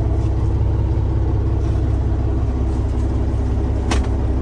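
Caterpillar C15 inline-six diesel of a Peterbilt 379 idling, a steady low rumble heard from inside the cab, with a single sharp click about four seconds in.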